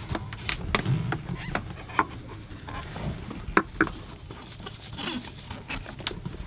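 Hand-work noises at a marine diesel engine's fuel filter: scattered clicks and knocks with rubbing, as the new secondary diesel filter is fitted by hand.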